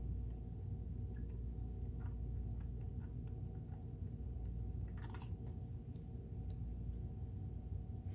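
Scattered small clicks and taps of small metal parts and screws being handled on a Kenmore sewing machine during disassembly, over a steady low hum.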